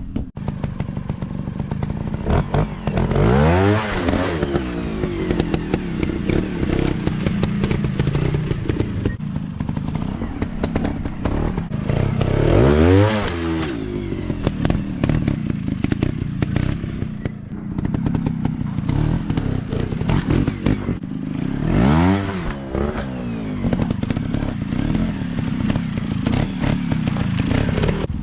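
Small dirt bike engines running, with a quick rev that rises and falls in pitch three times: about three seconds in, around twelve seconds and around twenty-two seconds. Knocks and clatter from the riding run underneath.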